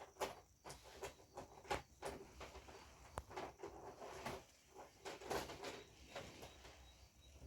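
Faint, irregular clicks, taps and rustling from TV parts being handled and fitted back into place during reassembly.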